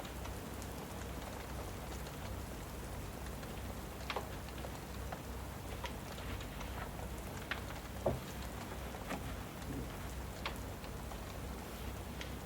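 Steady rain, with a fireplace crackling and popping now and then; the sharpest pop comes about eight seconds in.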